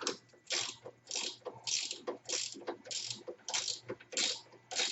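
Ratcheting gear wrench clicking on its back-strokes while a nut is turned down, one burst of fast pawl clicks about every 0.6 seconds in a steady rhythm.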